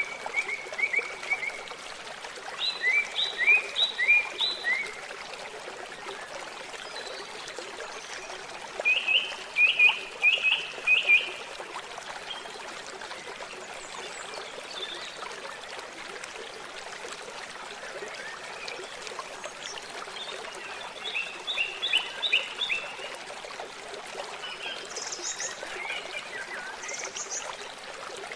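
Steady rushing of flowing water, with bursts of short chirping calls of four to six quick notes in a row, heard about five times and loudest in the first half.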